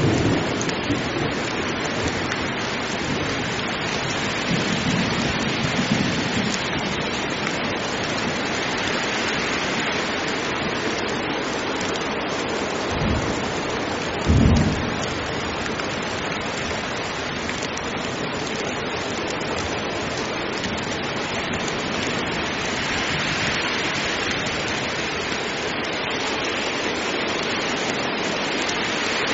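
Heavy rain falling steadily, with a few short, low rumbles of thunder in the first half, the loudest about halfway through.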